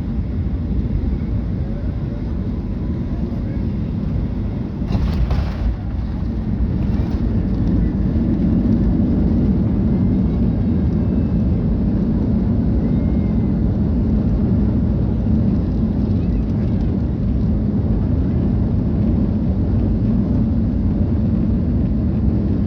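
Boeing 737 landing: a steady low jet-and-airflow rumble that swells louder about seven seconds in and then holds, with a short rushing hiss about five seconds in.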